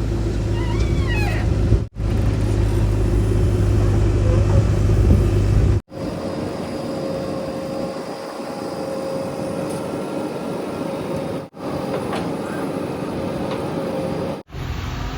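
Diesel engines of heavy earth-moving vehicles running, cut abruptly several times between shots. A heavy low rumble fills the first few seconds, then gives way to lighter engine noise with a steady whine.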